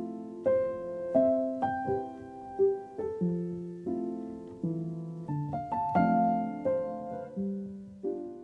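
Background music: solo piano playing a slow, gentle melody of notes struck and left to ring, one after another.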